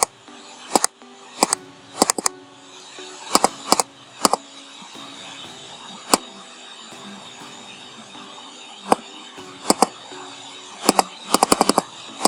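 Loud, sharp computer mouse clicks at irregular intervals: single clicks, pairs and quick runs, with a fast flurry of clicks near the end.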